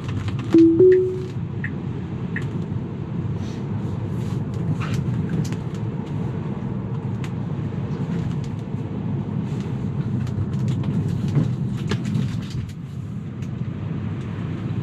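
Steady road and tyre noise inside a Tesla's cabin while driving, with a short two-note chime from the car, the second note higher, about half a second in.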